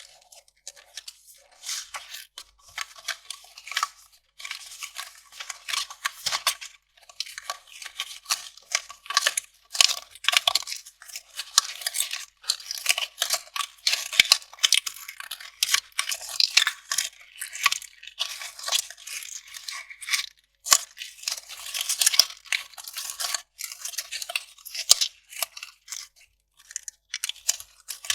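Kraft paper being torn and crinkled by hand, a dense run of irregular crackling rips with a few brief pauses.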